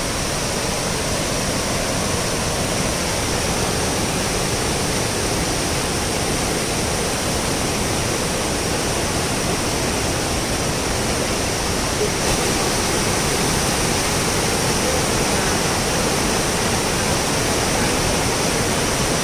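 Torc Waterfall, water pouring steadily over the rocks in an even, constant rush.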